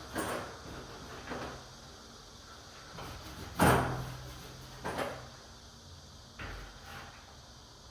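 Several irregular knocks and clunks with quiet gaps between them, the loudest a little before halfway through.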